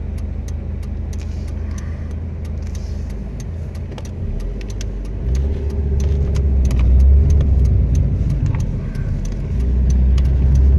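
2006 Suzuki Forenza's four-cylinder engine running, heard from inside the cabin; the drone grows louder about five seconds in and again near the end as the car pulls away. Light ticks sound throughout.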